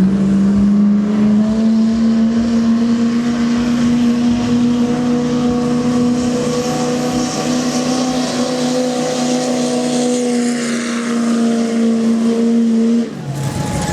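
GMC pickup truck's engine held at high, steady revs under full load as it pulls the sled down the track, dropping off abruptly about thirteen seconds in at the end of a full pull.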